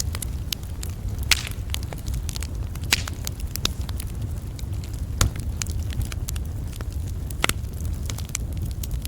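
Campfire burning, its wood crackling with frequent sharp pops, the loudest four scattered a second or two apart, over a steady low rumble.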